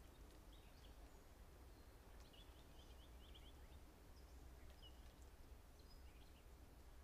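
Faint birdsong: scattered short high chirps, with a quick run of notes about two and a half seconds in, over a low steady background rumble.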